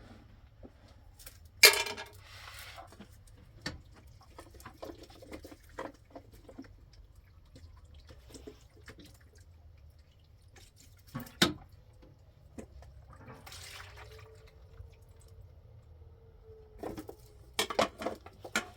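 Scattered sharp knocks and clinks with water sounds between them. The loudest knock comes about one and a half seconds in, followed by a short splash; another comes near the middle, and a quick cluster near the end.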